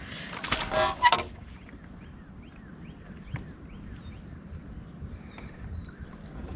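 A bird calling a quick run of about eight short chirps, after a brief loud burst of noise at the start.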